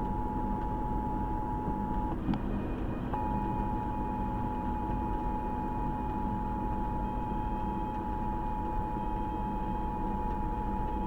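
Emergency Alert System attention signal on the car radio: a steady two-tone alarm, announcing the tornado warning that follows. It breaks off with a click about two seconds in, then resumes, over steady road noise from the moving car.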